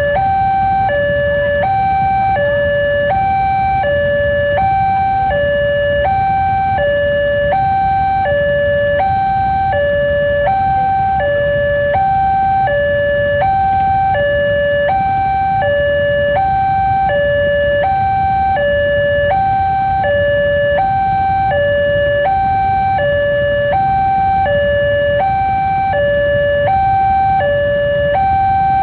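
Railway level-crossing warning alarm sounding a steady two-tone electronic signal, alternating high and low about once a second, which warns that a train is about to pass. A low rumble of idling vehicles sits underneath.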